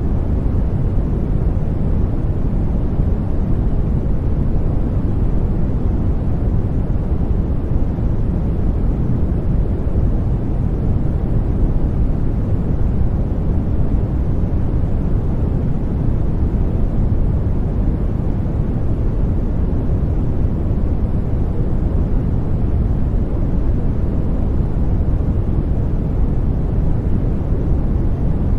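Continuous baby-sleep white noise: a deep, even rushing sound, heaviest in the low end, that never changes.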